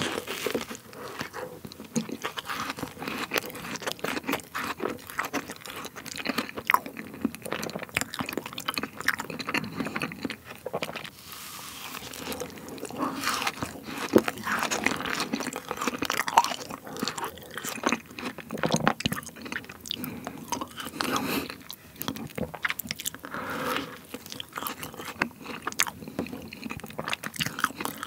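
Close-miked biting and chewing of a fresh-cream fruit sandwich whose fruit is still partly frozen: a dense run of short mouth clicks and wet smacks.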